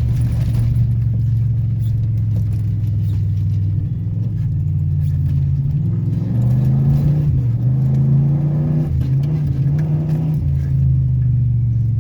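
Pickup truck engine running while the truck is driven over rough off-road ground, with the revs rising and falling between about six and ten seconds in.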